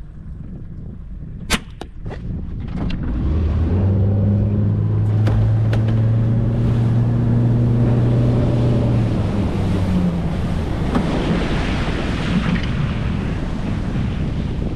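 A boat's outboard motor picks up a few seconds in and runs steadily with a low hum, then gives way to a rushing of wind and water as the boat gets under way. A single sharp knock comes shortly before the motor picks up.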